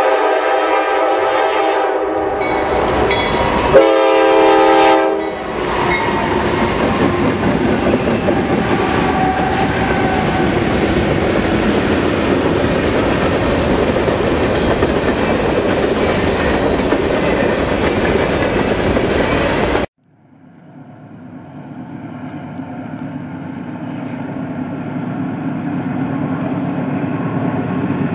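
Norfolk Southern diesel freight locomotives blow their multi-chime air horn twice, the second blast about four seconds in being the louder, then a long string of hopper cars rolls by with steady wheel noise and rail clatter. About twenty seconds in this stops abruptly and a distant diesel locomotive is heard approaching, its engine growing louder.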